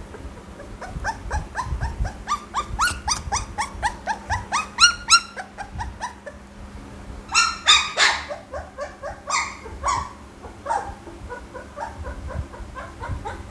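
Pit bull puppies whining and yelping, with rapid short high-pitched cries several a second and a louder burst of yelps about eight seconds in.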